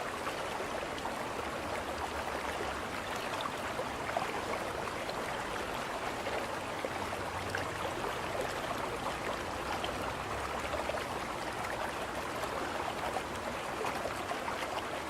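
River water rushing and splashing steadily along the hull of a moving boat.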